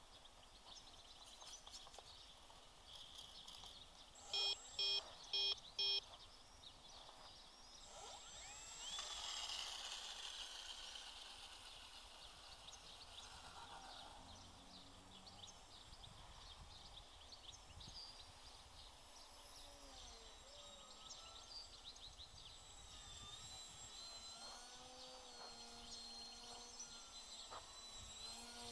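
Four short electronic beeps in quick succession about four to six seconds in, over faint outdoor ambience with scattered bird calls and chirps.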